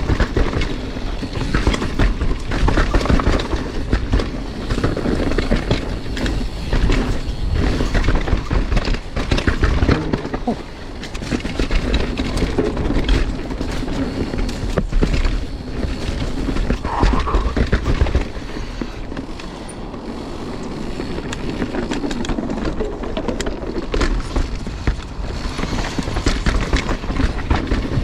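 Mountain bike riding a dirt trail: tyres rolling over dirt and rocks with a constant clatter of rattles and knocks from the bike, and a rumble of wind on the microphone. It eases off briefly a little past halfway, then picks up again.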